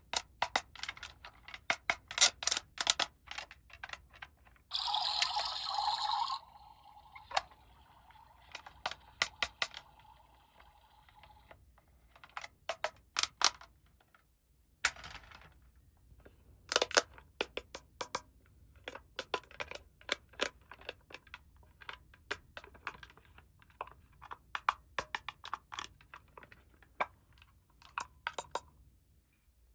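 Small plastic toy pieces being handled, clicking and tapping against each other in quick, irregular taps. About five seconds in, a brief noisy rustle of packaging.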